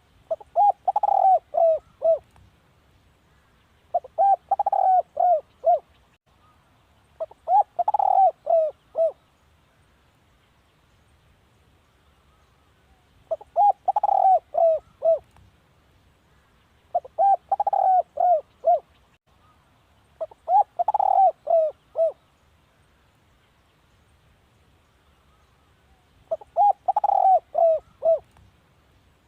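Spotted dove cooing: seven phrases of four to six quick coos each, every phrase about two seconds long and repeated every two to four seconds.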